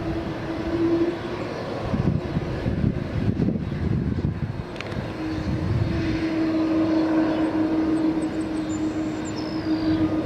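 Jet airliner engines heard from the ground: a steady engine tone, broken a couple of seconds in by a rough rumble for a few seconds before the tone returns.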